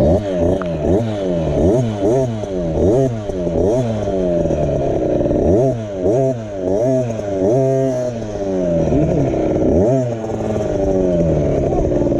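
KTM 50 SX's two-stroke single-cylinder engine revving up and dropping back again and again, about once a second. A beginner rider is working the throttle on and off while learning to ease into it.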